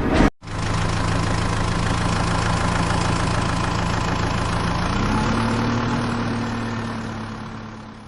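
Vehicle engine idling steadily. Its pitch steps up slightly about five seconds in, and it fades out near the end.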